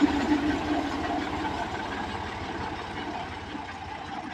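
Tractor diesel engine running steadily, its sound slowly fading over the few seconds.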